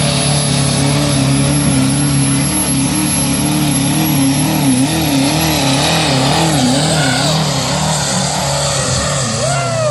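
2003 Chevrolet Silverado pickup engine running hard under load while pulling a weighted sled. Its pitch wavers up and down repeatedly through the middle stretch as the engine labours.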